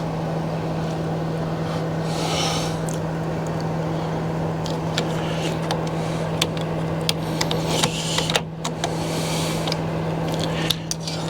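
A steady low mechanical hum runs throughout under a noisy background, with two brief hissing swells and scattered light clicks and taps.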